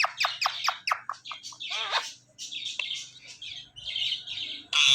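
Indian ringneck parrot chirping: a quick run of short, high chirps, then scattered chirps and calls, ending in a loud harsh squawk.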